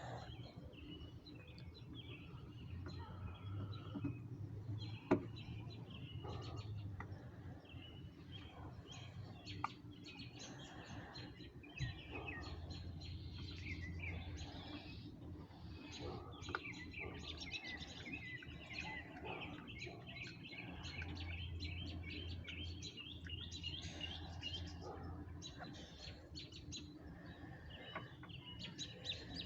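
Several wild birds chirping and singing, busiest in the middle stretch, over a low steady hum. A few sharp clicks or knocks stand out, the loudest about five seconds in.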